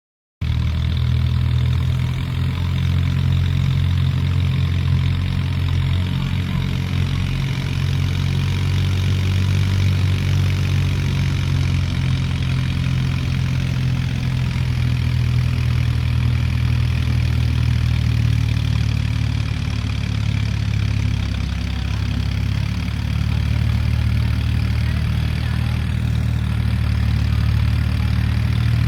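Mahindra 265 tractor's three-cylinder diesel engine running steadily at a constant low speed.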